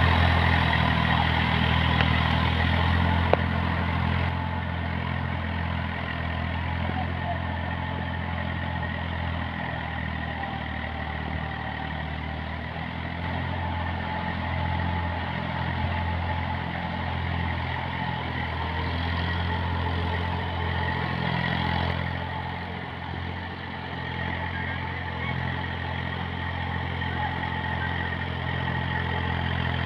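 Eicher diesel tractor engine running steadily, its low drone swelling and easing slightly.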